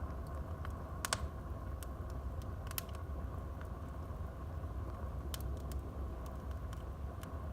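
Wood fire burning in a fireplace: a steady low rumble of the flames with irregular sharp crackles and pops from the burning logs, the strongest about a second in and a quick double pop near the middle.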